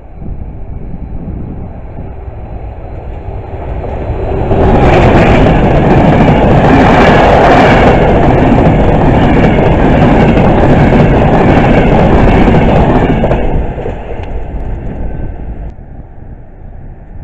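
Passenger train of Trenitalia 'Treno Notte Comfort' coaches passing at speed: a rising rush as it approaches, a sudden jump to a loud steady rumble of wheels on rail for about nine seconds while the coaches go by, then falling away and dropping off sharply near the end.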